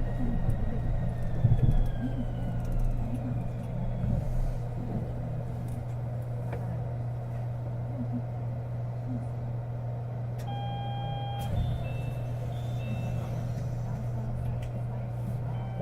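Kobe New Transit 2020-series (Port Liner) rubber-tyred automated train heard from inside the car. The motor whine falls in pitch as the train slows to a stop, then a steady low hum carries on while it stands. A short door chime sounds about ten seconds in.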